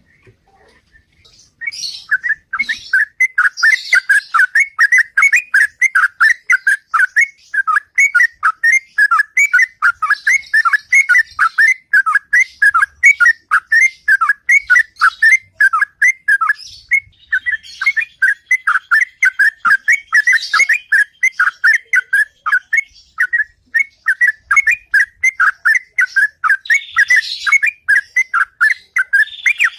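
Yellow-vented bulbul (trucukan) singing its loud 'ropel' song: a long run of quick, repeated whistled notes, several a second, starting about a second and a half in with a brief break about halfway.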